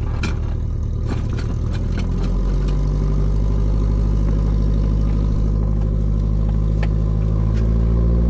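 A steady engine drone, its pitch shifting slightly about two seconds in, with a few sharp clicks in the first two seconds and one near the end.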